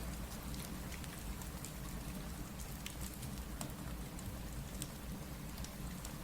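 Steady rain, with scattered sharp ticks and pops over a low rumble; the ticks may come from a crackling fireplace.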